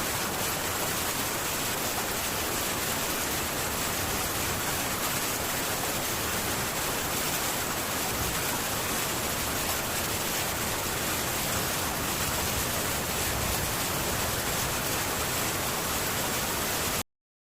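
Heavy rain falling on a metal tin roof, a steady, even hiss that cuts off suddenly near the end.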